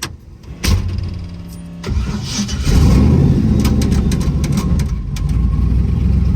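Twin-turbo small-block Chevy V8 in a Caprice running. It comes in sharply a little under a second in, grows louder in steps at about two and three seconds, then holds steady.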